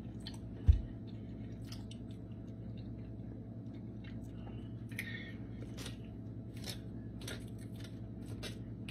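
A person chewing a mouthful of creamy chicken pasta casserole, with small clicks and scrapes of a fork cutting into the food on a plate, over a steady low hum. A single low thump, the loudest sound, comes just under a second in.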